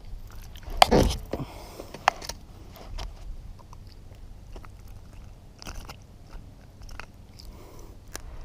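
Scattered clicks, knocks and rustles of fishing gear being handled in a kayak. The loudest knock comes about a second in, with a second sharp click about a second later.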